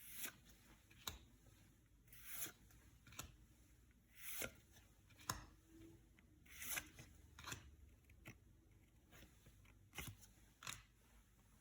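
Yu-Gi-Oh trading cards and booster packs being handled. The sound is a spaced-out series of about a dozen sharp little clicks and a few short papery swishes, with quiet between them.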